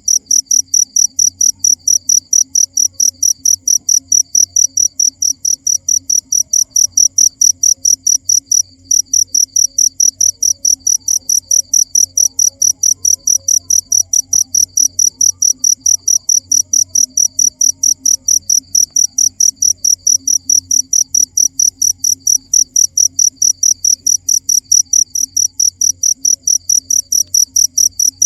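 A cricket chirping steadily in a fast, even, high-pitched pulse train, about four or five chirps a second, with one brief break about nine seconds in.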